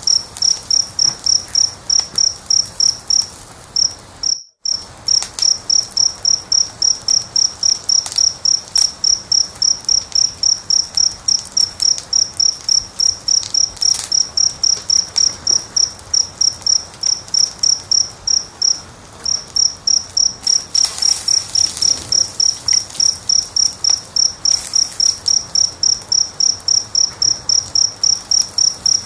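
A cricket chirping steadily and loudly, about three high chirps a second, breaking off briefly a couple of times. Behind it are a few faint crackles of a wood fire.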